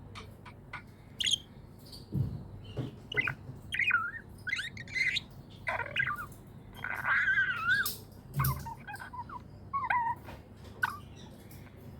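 Budgerigars chirping and chattering in quick, irregular short calls and warbles, with scattered clicks and two low thumps, about two seconds in and about eight and a half seconds in.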